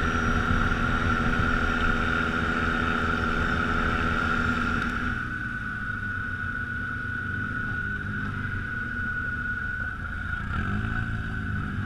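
ATV engine running under throttle, then easing off about five seconds in to a lower, steadier run, with a short rev near the end.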